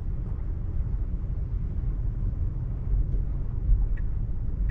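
Steady low rumble inside the cabin of a Tesla Model 3, an electric car, rolling slowly over wet pavement: tyre and road noise.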